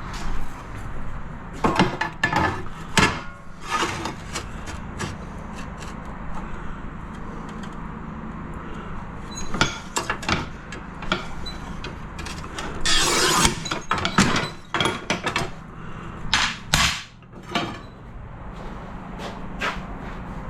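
Scattered knocks and taps of tiles and hand tools being handled, with one longer scrape about thirteen seconds in.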